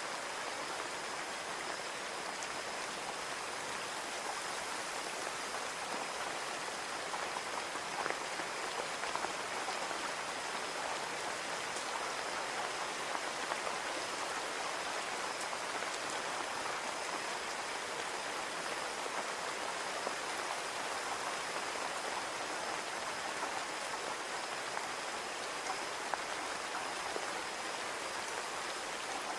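Steady rain falling on a window, an even patter with scattered individual drops ticking.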